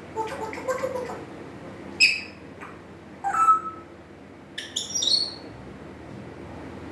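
African grey parrot calling in four short spells: a run of chattering notes, then a sharp whistle about two seconds in, a squawk ending in a held whistled note about a second later, and a cluster of high whistles near the end.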